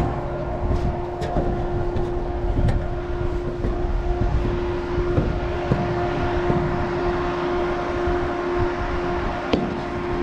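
Farm machinery running steadily, a constant mechanical drone with a steady hum, with a few faint clicks.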